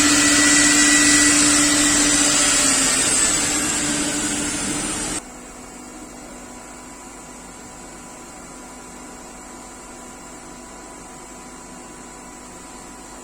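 CNC panel-cutting router running loudly, its spindle and dust extraction making a steady whirring noise whose pitch and level sag over a few seconds as it winds down. About five seconds in it cuts off abruptly, leaving a quiet steady machine hum.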